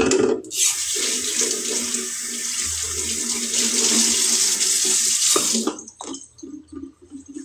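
Kitchen tap running hard into a sink for about five seconds, then shut off suddenly, with a few clinks before and after it.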